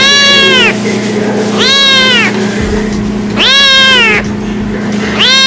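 A kitten meowing loudly over and over: four long, high meows about two seconds apart, each rising briefly and then falling in pitch.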